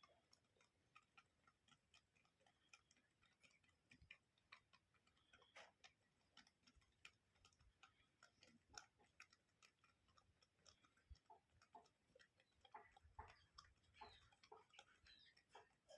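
Near silence, with faint, irregular clicks and ticks, a little more frequent in the last few seconds.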